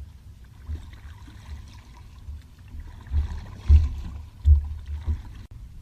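Kayak drifting on the water: a few dull, low knocks against the hull with faint water sounds, the loudest about three quarters of the way through.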